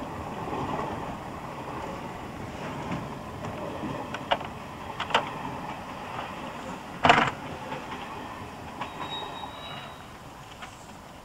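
Slam-door electric multiple unit (Class 305, 307 or 308) slowing into a station, heard from inside the carriage: the running rumble slowly fades. A passenger opens a slam door while the train is still moving, with a few clicks and then a loud bang about seven seconds in, and a faint high squeal near the end.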